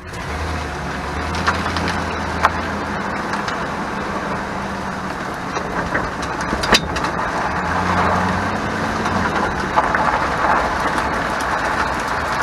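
2001 Chevrolet Silverado 1500 pickup driving over a rough surface, with steady road and engine noise and several sharp rattling knocks as the rear wheels hit bumps; the owner traced the rattle to the parking (emergency) brake.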